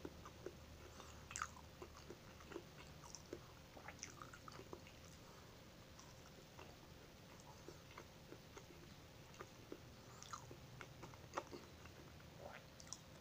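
Quiet, close-up chewing and biting of buko pie: soft, irregular mouth clicks and smacks, a couple louder than the rest.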